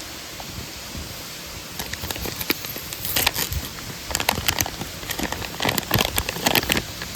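Irregular crackling and snapping of dry kindling or small wood, coming in clusters from about two seconds in.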